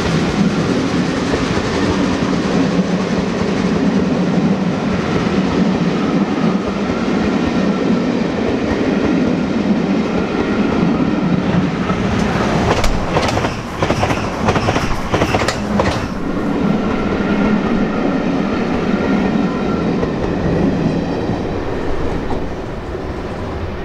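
Belmond British Pullman coaches rolling past on the rails: a steady loud rumble of wheels on track, with a run of sharp clacks about halfway through. It fades near the end as the last coach goes by.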